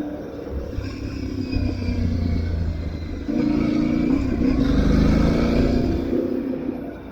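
Aprilia Tuareg 660 motorcycle's parallel-twin engine running under throttle, getting louder about three seconds in as it accelerates, then easing off near the end.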